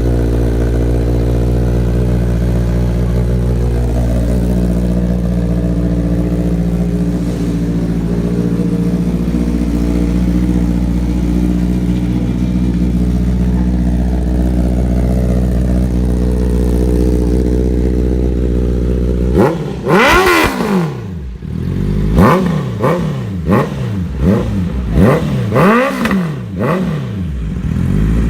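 Honda CBR650R inline-four with a loud aftermarket exhaust, idling steadily, then revved in quick throttle blips from about two-thirds of the way in, around eight sharp rises and falls in pitch.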